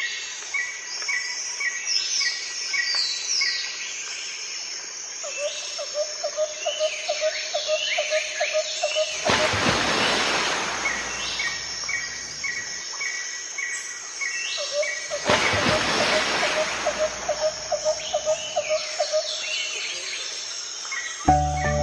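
Several birds singing and calling: quick chirps, a run of short repeated notes, and a lower note repeated several times a second. About nine seconds in and again about fifteen seconds in, a rush of noise swells and fades over a few seconds. Music comes in near the end.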